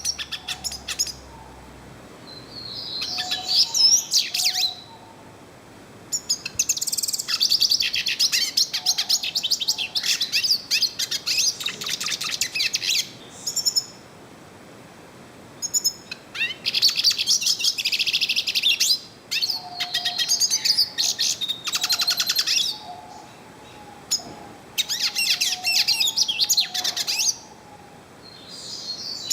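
Yellow-faced siskin singing: several bouts of rapid, high twittering song separated by short pauses of a second or two.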